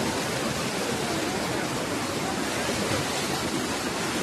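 Steady rush of water, a dense even hiss of heavy rain or flowing floodwater.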